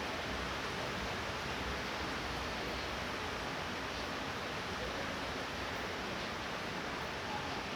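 Light rain falling steadily as an even hiss.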